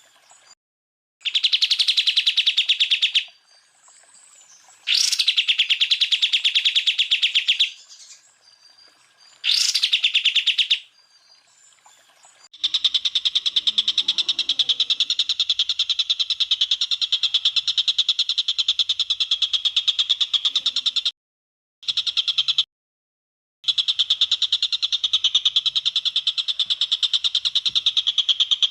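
Greater green leafbird (cucak ijo) singing its rapid-fire 'tembakan' phrases of fast repeated high notes. The song comes first in bursts of a few seconds with pauses between them, with a sharp rising whistle twice, then runs on continuously from about halfway through. This is a masteran recording, the kind played to captive songbirds to teach them this song.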